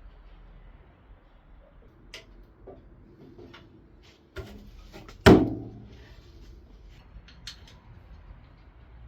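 Scattered light clicks and knocks, with one loud knock about five seconds in that rings off briefly.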